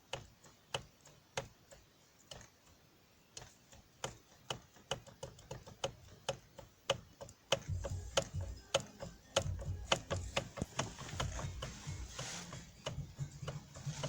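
Sharp clicking knocks from a Toyota Land Cruiser Prado 120's steering column, the fault being chased there. The clicks come irregularly, about one a second at first and faster from about halfway, when a low hum joins underneath.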